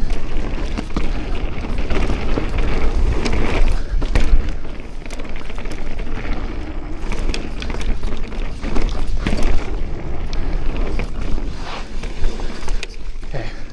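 Mountain bike on a dirt forest trail: wind rumbling on the microphone over the noise of tyres on dirt, with scattered knocks and rattles as the bike hits bumps.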